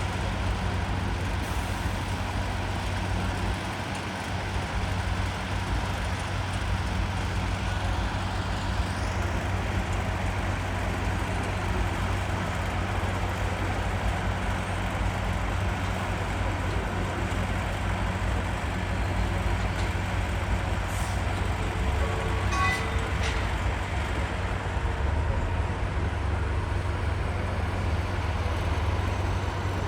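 Steady engine rumble with a low hum, unchanging throughout, and a brief faint tone about twenty-two seconds in.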